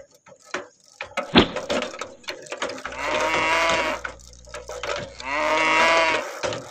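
A cow mooing twice, two long calls of about a second each, after a few scattered knocks and clicks.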